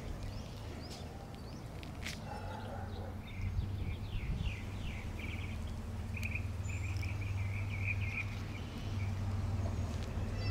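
A small bird chirping: a few quick descending notes, then a rapid run of chirps, over a steady low outdoor rumble. There is a single light click about two seconds in.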